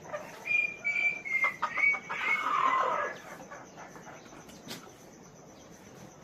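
Chickens calling, a run of short high calls and a louder squawk over the first three seconds, then much quieter.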